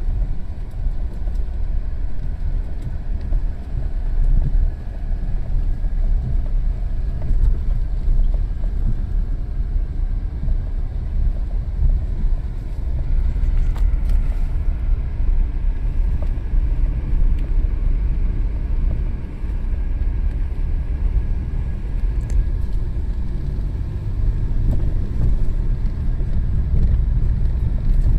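Strong wind buffeting the microphone: a loud, uneven low rumble that swells and eases without a break.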